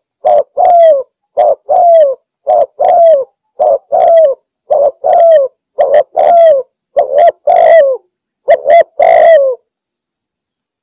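Spotted dove (tekukur) cooing vigorously: a fast run of paired coos, a short note followed by a longer one that falls in pitch, repeating about once a second. The calling stops about nine and a half seconds in.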